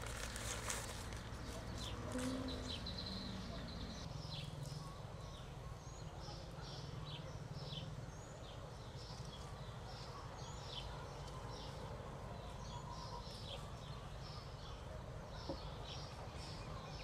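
Birds chirping: a long run of short, high, repeated calls over a low steady outdoor rumble.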